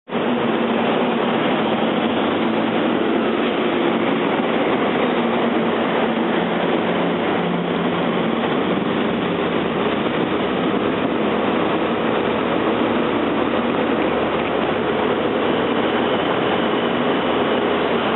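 Steady, loud mechanical drone of a ferry's vehicle deck, with engines running and no change in pitch or level.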